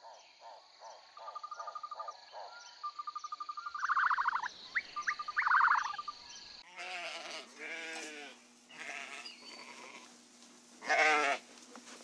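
Sheep bleating several times in wavering calls, the loudest near the end. The first half holds wildlife ambience instead: a steady high-pitched drone with repeated chirping calls.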